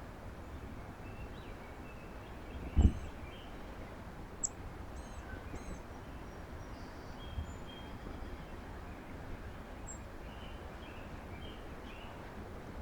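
Small birds giving scattered short, faint chirps over a steady low outdoor rumble. A loud low thump comes about three seconds in, with a sharp click a little later.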